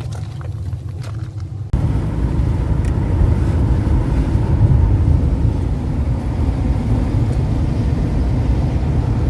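A steady low hum, then about two seconds in an abrupt change to a louder, even rumble and rush: road noise of a car driving, heard from inside the cabin.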